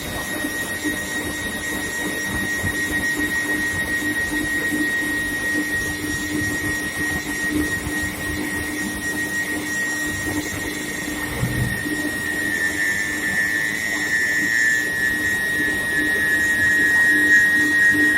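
Induction heating equipment running on square steel bar: a steady high-pitched whine with a lower steady hum over machinery noise. About two-thirds of the way through a second whine joins and slides slightly lower in pitch, and there is one short low knock just before it.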